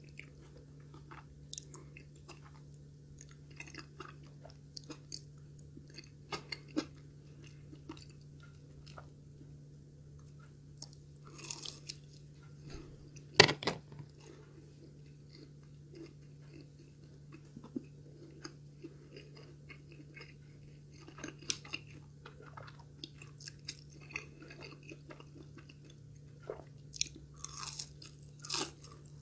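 Close-miked eating: chewing of curry rice and crispy fried katsu, with scattered crunches and wet mouth clicks. One sharp, loud crunch about halfway through, where she bites into a piece of the fried cutlet, and a run of crunching near the end. A steady low hum sits underneath.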